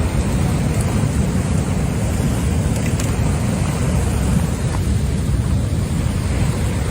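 A steady, loud low rumble with a rushing hiss above it.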